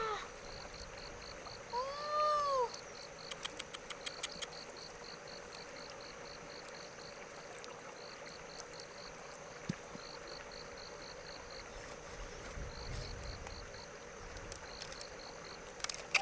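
Rhythmic chirping of a calling insect: trains of short high pulses, each train about a second long, with brief gaps between. About two seconds in comes one arched call that rises and falls in pitch, followed shortly by a few sharp clicks.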